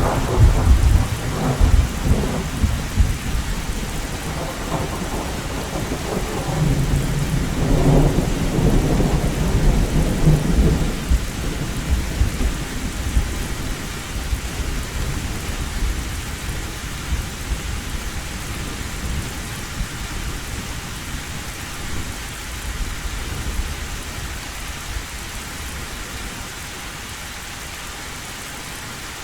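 Heavy rain drumming steadily on a tin roof, with a long roll of thunder rumbling through the first third and swelling again before it dies away, leaving the rain alone.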